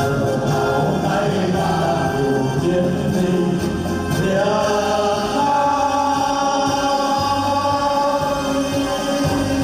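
A song with singing over instrumental backing; about halfway through, the voices settle on a long held note.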